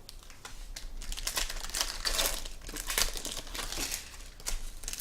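Crinkling and tearing of plastic wrapping, in irregular bursts that pick up about a second in, as trading-card packs are opened and handled.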